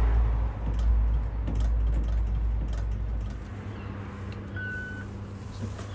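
A low rumble that drops away about three seconds in, then a single short electronic beep from a laundrette's touch-screen payment panel.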